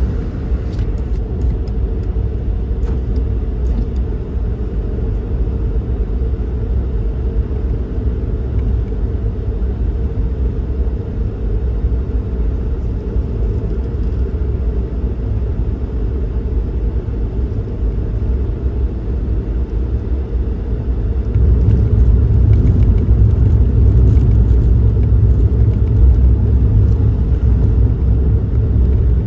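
Suzuki Kei Works car under way: a steady low rumble of engine and road noise, growing louder and heavier about two-thirds of the way through.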